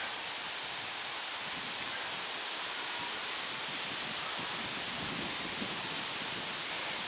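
Stormy wind blowing steadily, an even rushing hiss with no let-up.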